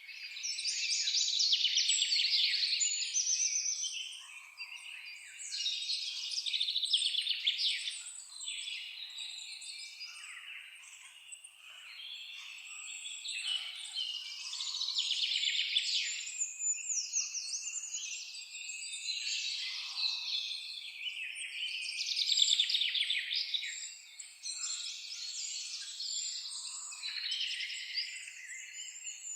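A chorus of many songbirds singing at once, fast chirps and trills that swell and fade in waves every few seconds, with now and then a softer, lower call beneath them.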